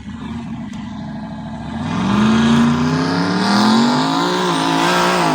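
Turbocharged mud truck engine accelerating hard under load, louder about two seconds in, its pitch rising steadily and dipping briefly near the end before climbing again.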